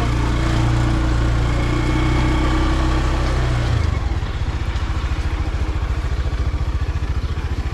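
Vehicle engine running as the ride to market gets under way. A little under four seconds in, the steady drone changes to an even rhythmic pulsing of several beats a second.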